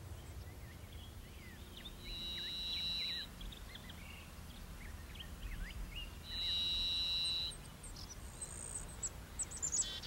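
Forest birdsong: two long, steady, high whistled notes about four seconds apart, over scattered short chirps.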